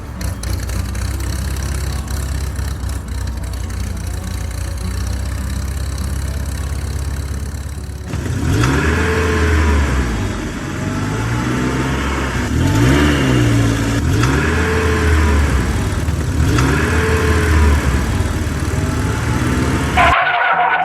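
An engine idling steadily, then from about eight seconds in revving up and down in repeated swells roughly every two seconds, cutting off abruptly near the end.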